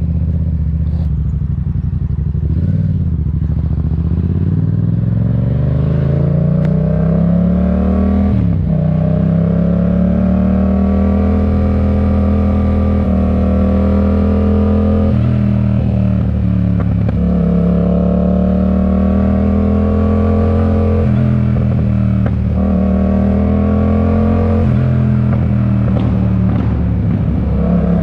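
Yamaha MT-07's parallel-twin engine breathing through an aftermarket RoadsItalia exhaust, accelerating through the gears. The pitch climbs steadily and drops back at each of several upshifts.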